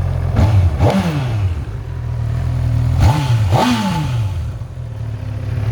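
2019 Honda CB1000R's inline-four engine idling, with the throttle blipped twice in quick succession about half a second in and twice more about three seconds in. Each blip rises sharply and falls back to idle.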